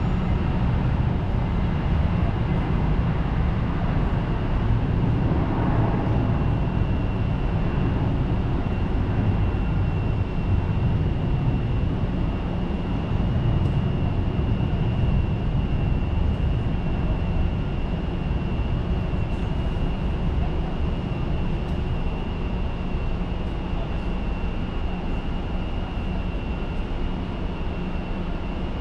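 Jet aircraft engines running: a steady low rumble with a constant high whine above it, easing off a little in the second half.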